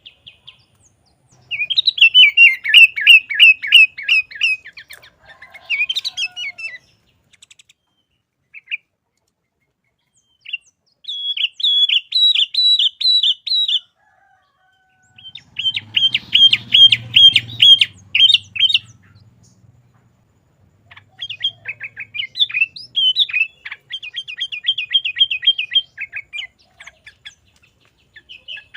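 Sooty-headed bulbul (kutilang) singing in bursts of fast, repeated chirping notes, each phrase lasting a few seconds with short pauses between.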